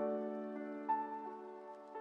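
Soft background piano music: a held chord that starts at once, with a higher note added about a second in, then slowly fading.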